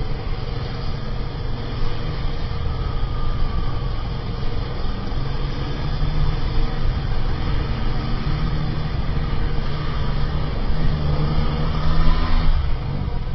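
Motorcycle engine running while riding, with steady road and wind noise, swelling a little louder near the end.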